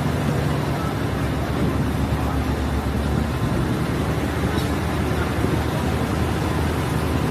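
Diesel multiple unit train running: steady low engine drone and rumble of the running gear.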